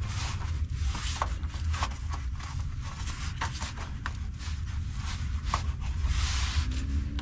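Scattered light clicks, knocks and scrapes of a new oil filter and hands being worked into place under a truck, over a steady low rumble.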